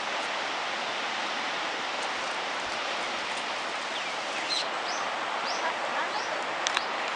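Steady rush of rough surf and strong wind on a rocky coast. In the second half, a bird gives a run of short, high, rising chirps.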